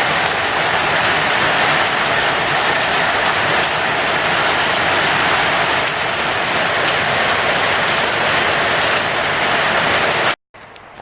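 Hailstones pelting down in a heavy hailstorm, a loud, steady, dense patter. It cuts off suddenly near the end.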